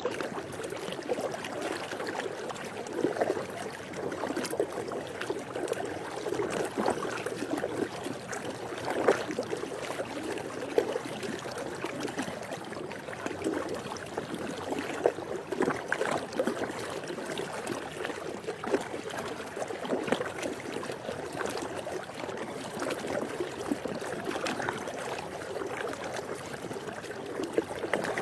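Swimming pool water splashing and sloshing steadily, with frequent small irregular splashes.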